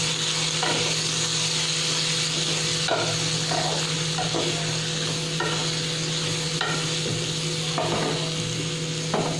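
Cauliflower florets frying in oil in a non-stick kadhai: a steady sizzle, with a spatula scraping and turning the pieces about once a second.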